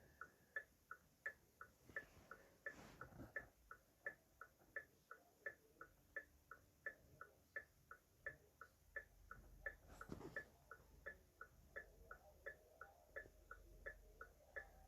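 Car hazard-light flasher ticking in a steady alternating tick-tock, about three clicks a second.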